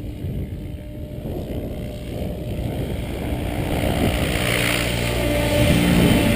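Gusting wind rumbling on the microphone, with the whine of an electric RC aircraft's motor and rotor rising out of it from about halfway through as the model comes closer, getting louder toward the end.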